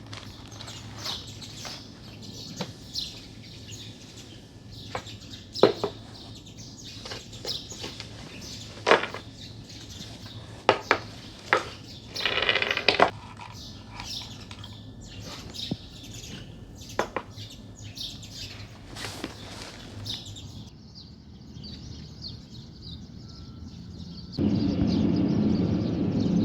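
Small birds chirping in the background, with scattered knocks and clicks of objects being handled. Near the end a loud steady rushing noise sets in.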